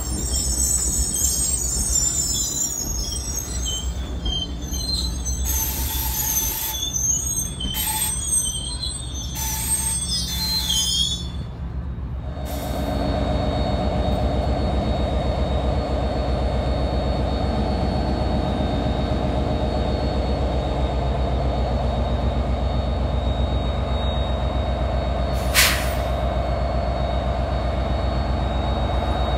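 Multilevel passenger train cars rolling by with high-pitched wheel squeal. About twelve seconds in, the steady engine sound of an NJ Transit PL42AC diesel locomotive takes over, with one short sharp click near the end.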